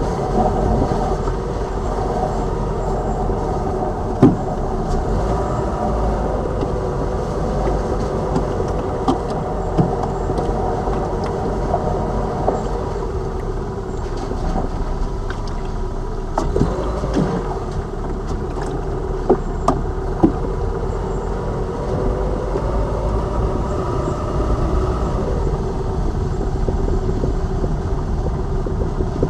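Lada Vesta Cross driving: steady engine and road noise, with a few short, sharp knocks about 4 s in, and again around 16 s and 19–20 s.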